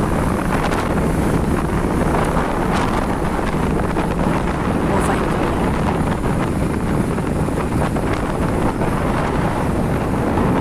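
Wind rushing over the microphone on a moving vehicle, with the vehicle's engine and road noise running steadily underneath.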